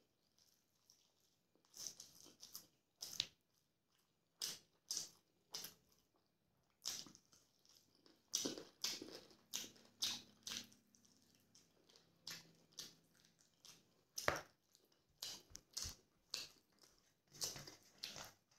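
A person chewing and smacking while eating rice and curry by hand: irregular short mouth smacks, about one a second, some in quick pairs.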